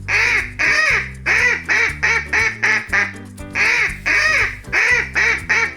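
A duck quacking over and over in quick runs of short quacks, over children's backing music with steady bass notes.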